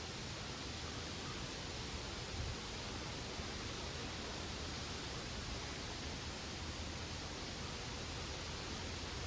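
Wind moving through backyard trees and plants, a steady rustling hiss of leaves with a low, uneven rumble underneath.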